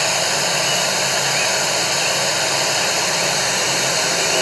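Steady, even rushing noise with faint steady whines in it and no change in level.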